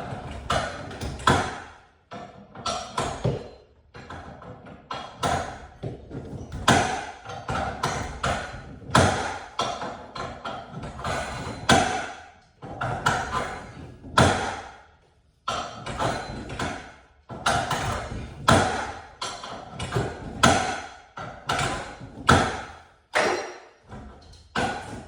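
An irregular run of sharp knocks, one or two a second, each ringing briefly, with a few short pauses in between.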